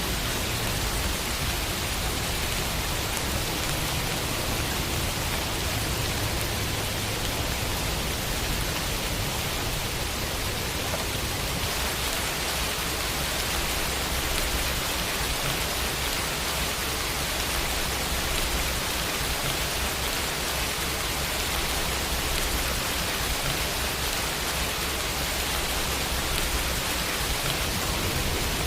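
Steady rain falling on a window, an even hiss with no distinct drops standing out.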